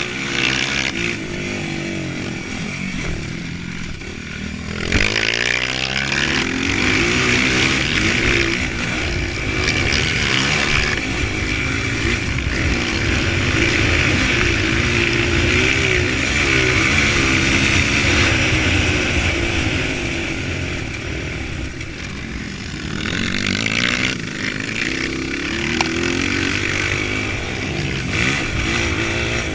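Dirt bike engines revving hard and repeatedly rising and falling in pitch as they race, with the throttle opened up again about five seconds in and again near the end.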